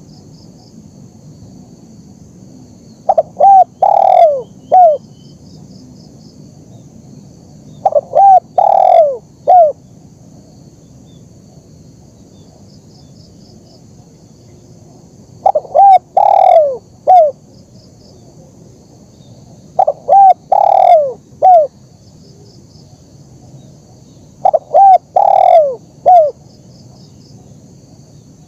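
Spotted dove (tekukur) cooing: five phrases, each of three or four short falling coos, repeated every four to seven seconds.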